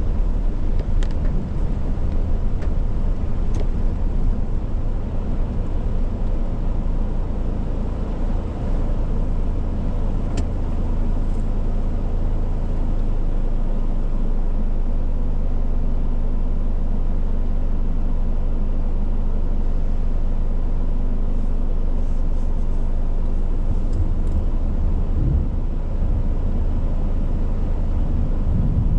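Heavy rainstorm: steady rain and wind noise with a low rumble.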